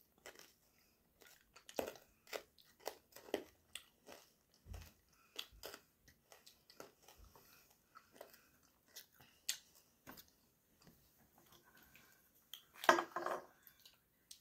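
Close-up chewing and crunching of Toxic Waste sour hard candy: scattered wet mouth clicks and crunches, with a louder cluster near the end.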